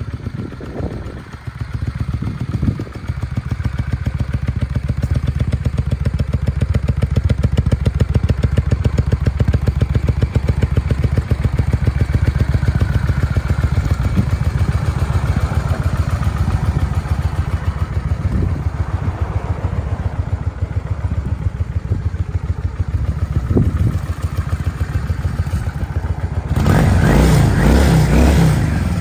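Honda VLX Shadow's 583 cc V-twin engine running steadily with an even, loping beat, its pitch rising and falling slightly around the middle. A louder, rougher burst comes near the end.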